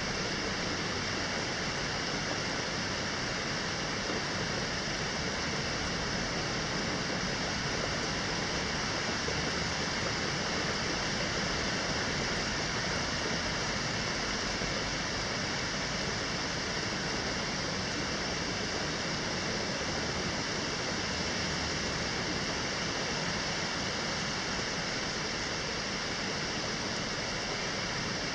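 Rain falling steadily: an even, unbroken hiss with no single drops or gusts standing out.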